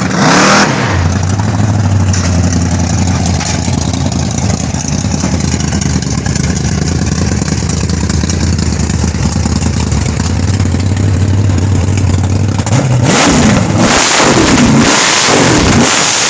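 Race car engine running with a steady low drone, with a loud blip of the throttle right at the start; near the end it is revved several times in quick succession, its pitch sweeping up and down.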